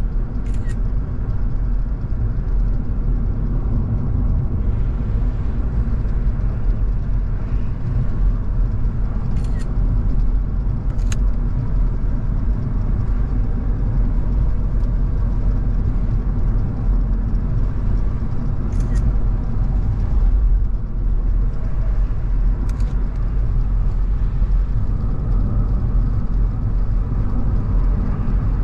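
Car driving at a steady speed: tyre and road noise with the engine running underneath, a low, even rumble. A few brief, sharp clicks stand out over it, about five in all.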